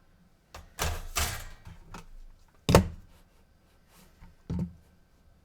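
A few knocks and clatters of something being handled, the loudest a single sharp knock near the middle, with a shorter knock near the end.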